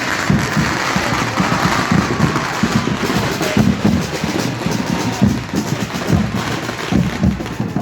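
Firecrackers going off in quick, irregular bangs and crackles over a steady din.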